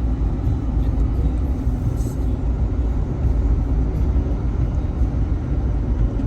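Steady rumble of a car driving on a snowy road, heard from inside the cabin: engine and tyre noise with no distinct events.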